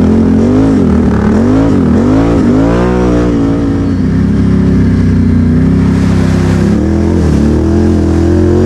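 ATV engine running, with the revs rising and falling several times in quick succession, then holding a steady speed, with a brief dip near the end.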